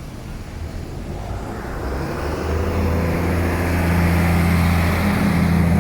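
A motor vehicle's engine approaching and growing louder, then holding a steady low hum.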